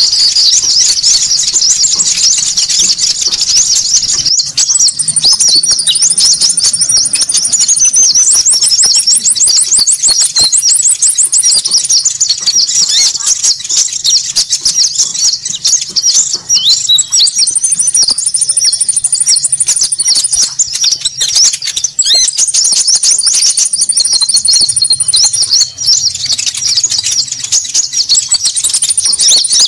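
A dense, unbroken chorus of high-pitched chattering calls from konin birds, played as a bird-trapping lure. A thin, higher trill cuts in every few seconds, the longest run about eight seconds in.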